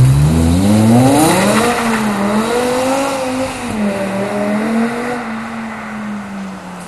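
BMW M5 with a Supersprint aftermarket exhaust accelerating hard. The exhaust note climbs steeply in pitch over the first second or so, then holds high and fades as the car pulls away.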